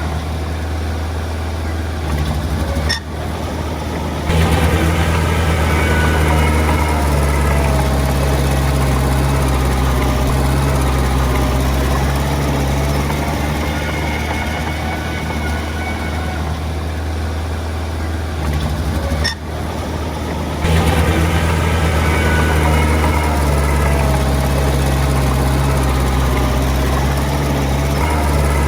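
Bulldozer's diesel engine running steadily with a deep low hum. Twice, about four seconds in and again about twenty seconds in, there is a short click and dip, then the engine steps up to a louder, heavier note.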